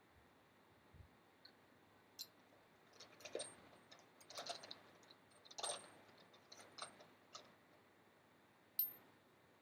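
Faint scattered clicks and short scraping noises over near silence, thickest about three to seven seconds in, with one sharp click near the end.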